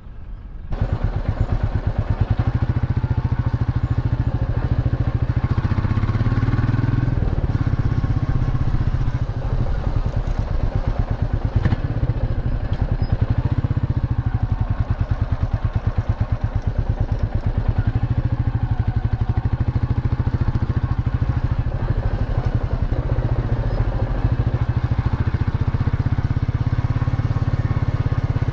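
Royal Enfield Meteor 350's single-cylinder engine running on the move, a steady, evenly pulsed exhaust thump that comes in abruptly under a second in, with engine speed rising and easing a few times.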